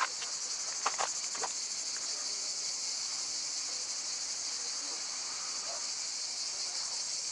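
Dense chorus of insects chirring in a steady high-pitched drone. A few short clicks or taps come in the first second and a half.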